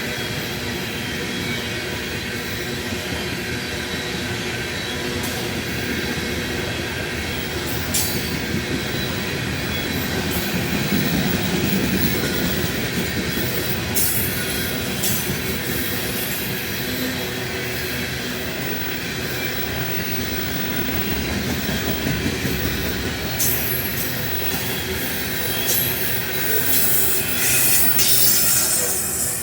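Loaded grain hopper cars of a freight train rolling past on steel rails: a steady rumble of wheels with high, thin wheel squeal and scattered sharp clicks from the wheels crossing rail joints.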